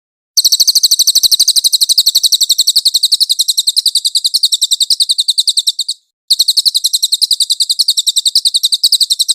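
Caged songbird singing a long, fast trill of high, evenly repeated notes, about ten a second, breaking off briefly about six seconds in before starting a second trill.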